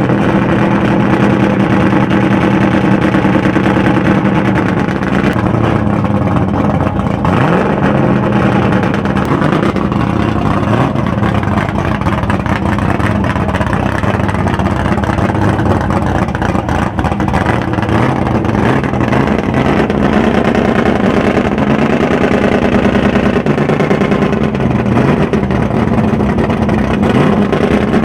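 Naturally aspirated Ford Maverick V8 on two four-barrel carburettors, running loud and steady with small rises and falls in revs.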